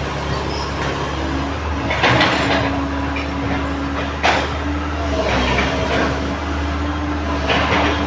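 Komatsu PC130 excavator running steadily, with a steady whine coming in about two seconds in, and several loud metallic clanks and scrapes of steel track parts while the track is being taken off.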